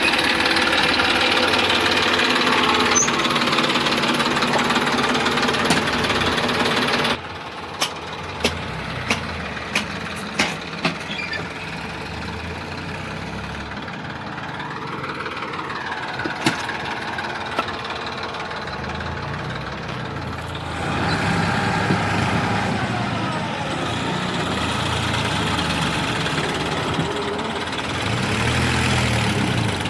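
A heavy vehicle's diesel engine running steadily. About seven seconds in, the sound drops suddenly to a quieter engine with a quick series of sharp clicks, and it grows louder again about two-thirds of the way through.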